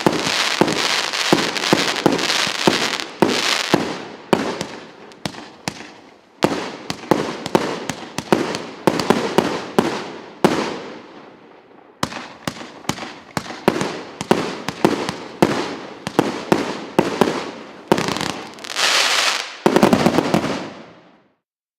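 Fireworks battery (cake) firing a rapid run of shots and aerial bursts, thinning briefly about six and twelve seconds in, with a dense, loud finale near the end before the shots stop.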